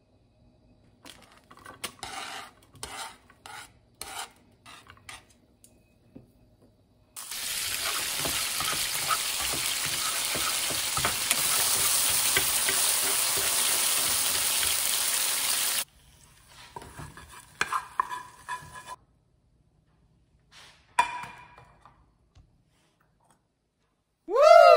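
Chopped green onions sizzling in hot oil in a stainless steel frying pan, a loud steady sizzle for about nine seconds that cuts off suddenly. Before it, a silicone brush scrapes oil around the pan; after it come a few scrapes and clinks in the pan. Near the end, a short loud pitched sweep that rises and falls.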